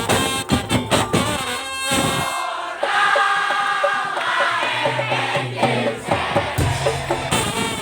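Madurese daul (tongtong) ensemble music: rapid drum and percussion strokes for about two seconds, then the beat mostly drops out under a sustained melody line, with the percussion coming back near the end.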